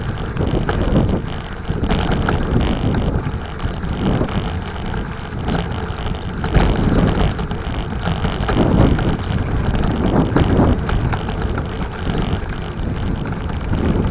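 Wind buffeting the microphone of a moving bicycle, over a rushing road noise that rises and falls unevenly.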